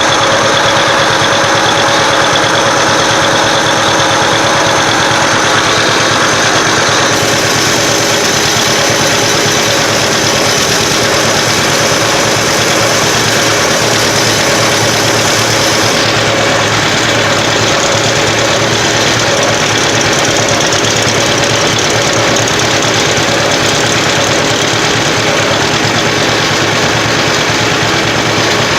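Vintage tractor engine running steadily close by, with a fast, even firing beat.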